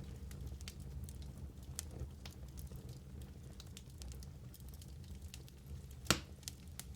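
Wood fire burning in a fireplace: a steady low rumble under scattered crackles and small pops, with one sharp pop about six seconds in.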